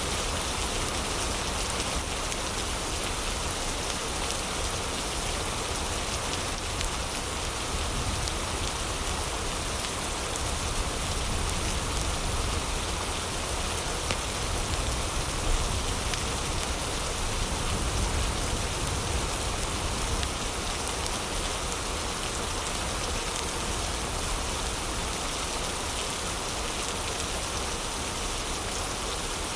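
Steady heavy rain, a constant even hiss, with a few faint sharp crackles from a log fire mixed in.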